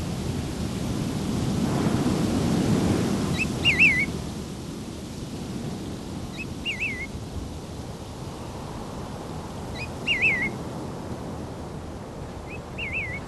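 A bird gives four short, quick warbling calls, about three seconds apart, over a low rumbling noise that swells over the first few seconds and then eases.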